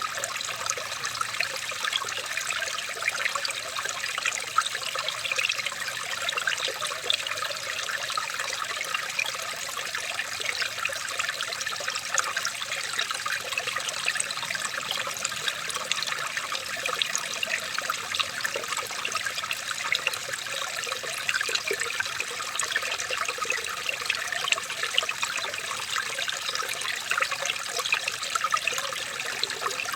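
Water trickling and babbling steadily over stones, like a small stream, with many small splashes throughout.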